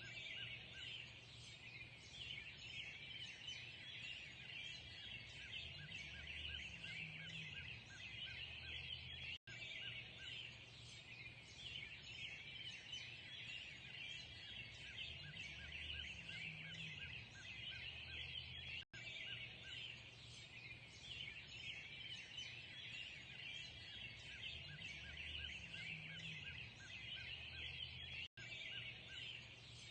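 Dawn chorus of many songbirds chirping and singing over one another. The same short stretch repeats about every nine and a half seconds, with a brief break in the sound at each join.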